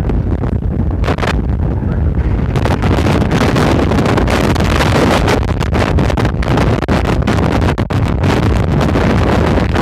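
Strong Mistral wind gusting and buffeting the microphone: a loud, unsteady rumble that grows heavier from about two and a half seconds in.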